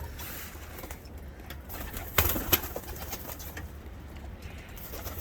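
Domestic pigeons cooing in a loft, with two sharp knocks about two seconds in.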